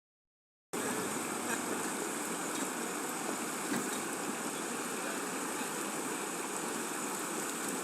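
Steady rushing of flowing water, typical of rainwater runoff, starting suddenly after a brief silence.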